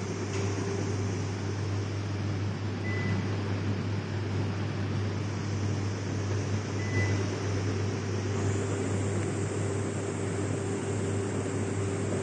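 Steady low mechanical hum with a faint higher tone above it, and two very brief faint high tones about three and seven seconds in.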